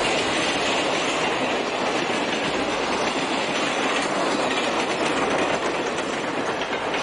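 A train running along the track: a steady rumble and rail noise that goes on without a break.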